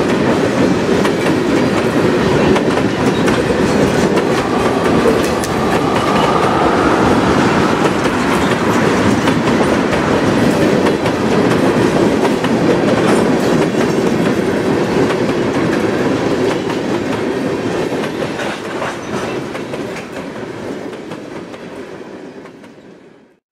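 Norfolk Southern freight train of tank cars rolling past close by: a steady rumble with the clickety-clack of wheels over the rail joints. It fades away over the last few seconds as the end of the train goes by.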